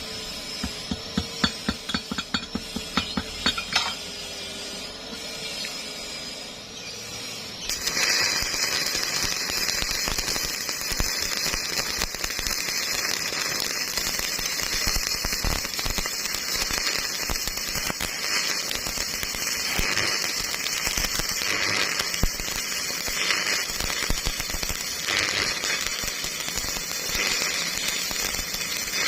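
Stick-welding arc crackling and sizzling steadily; it strikes up abruptly about eight seconds in. Before it comes a quick run of sharp taps in the first few seconds.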